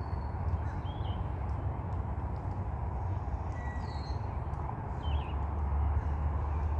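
A steady low rumbling noise, with a few brief, faint high bird chirps scattered through it.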